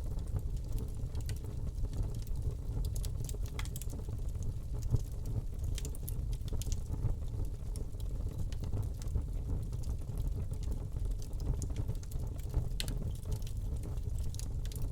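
Wood fire crackling in a fireplace: irregular sharp snaps and pops over a steady low rumble of the flames, with one louder pop about five seconds in.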